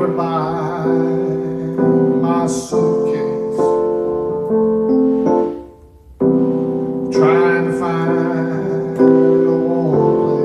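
Keyboard playing a slow intro of held chords, a new chord struck about every second. The sound fades out briefly a little past halfway, then the chords start again.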